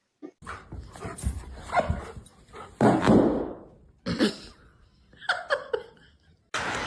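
A dog vocalizing in a string of short calls, some pitched, separated by brief gaps.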